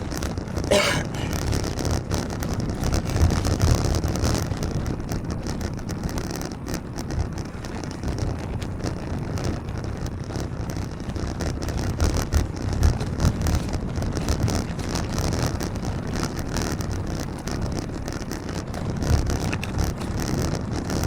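Wind rumbling unevenly on the microphone of a camera on a bicycle ridden in the rain, over a steady hiss of road and traffic noise. A brief wavering high sound comes about a second in.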